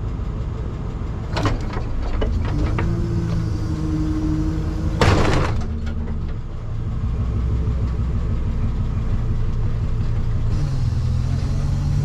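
Tow truck engine idling. A steady whine runs for a couple of seconds, then a short loud burst of noise about five seconds in. The engine note steps up slightly near the end.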